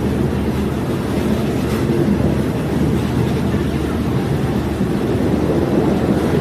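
Steady running noise of a diesel multiple unit train heard on board: a continuous low rumble of engine and wheels on the rails.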